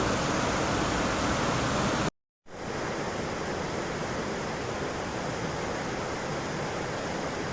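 Steady rushing roar of a whitewater waterfall and rapids. About two seconds in it cuts off abruptly for a moment, then returns as a slightly quieter, even rush of river water from farther upstream.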